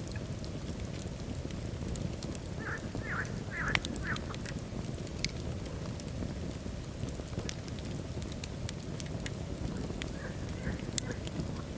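Wood fire burning in a fireplace: a steady low rumble of flames with scattered sharp crackles and pops. A quick run of four short squeaky sounds comes a few seconds in, with two or three fainter ones near the end.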